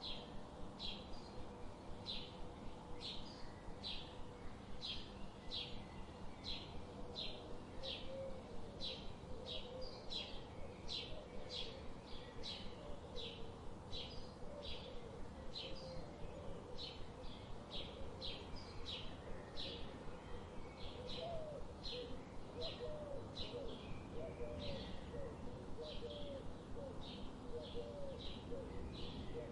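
Birds chirping: one bird repeats a short high chirp about twice a second, steadily throughout. From about a quarter of the way in, a second, lower series of short curling call notes joins it.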